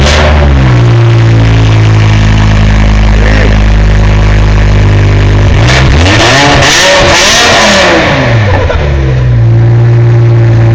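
BMW M6 engine, with resonators and catalytic converters removed, running loud at a fast cold idle. It settles from a blip at the start, and about six seconds in it is revved, the pitch climbing and falling back to idle over about three seconds.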